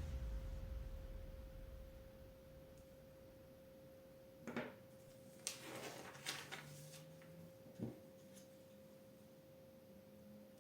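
Background music fading out, leaving a faint steady tone and a few sharp clicks of small plastic LEGO pieces being handled and pressed together.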